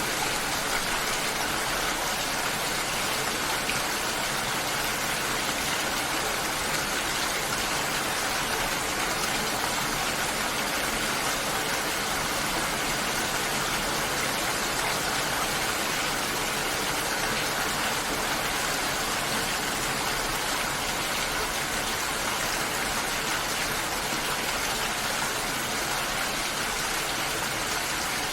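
Steady, unbroken rush of water, even throughout with no single drops, splashes or other events standing out.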